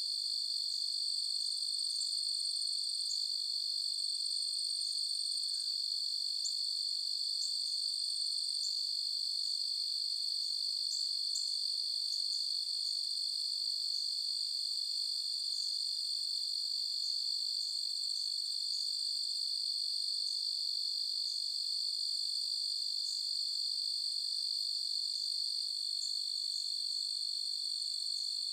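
A chorus of crickets trilling steadily in a continuous high-pitched drone, with scattered short, higher chirps over it.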